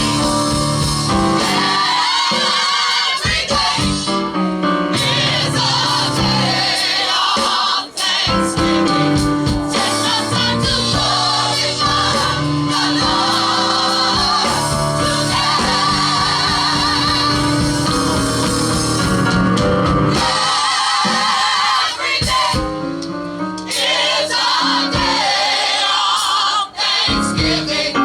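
Live gospel music: a vocal group singing in choir-like harmony over a full instrumental backing with a steady beat.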